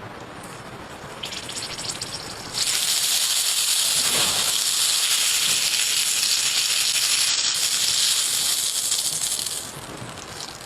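Loud hissing sizzle on a hot cooking stone. It starts suddenly about two and a half seconds in, holds steady, and falls away near the end.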